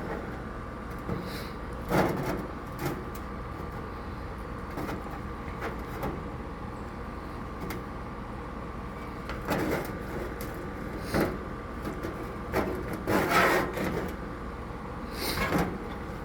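A cloth rubbing and wiping out a small metal grease pan, in scattered scrubbing strokes with short pauses between them.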